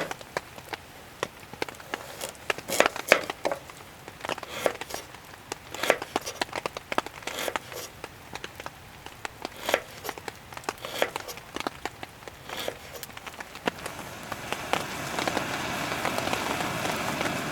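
Wood fire crackling with scattered sharp pops. A hiss swells up near the end.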